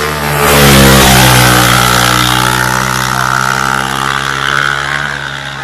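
Racing motorcycle engine at full throttle, very loud and close. It peaks about a second in as its pitch drops, then holds a steady high note while fading slightly near the end.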